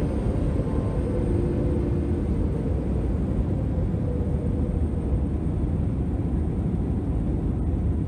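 Airliner heard from inside the cabin: a steady low rumble of engine and airflow noise, with a faint engine whine in the first couple of seconds.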